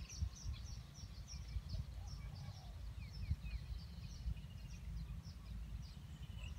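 Many short, high bird chirps and a few quick falling notes, over a steady low rumble.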